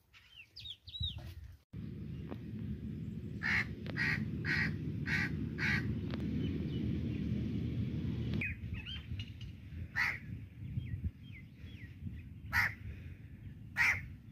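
Birds calling outdoors: a quick run of five harsh, crow-like caws a few seconds in and more single caws later, with small birds chirping in between. A low steady rumble sits underneath from about two seconds in.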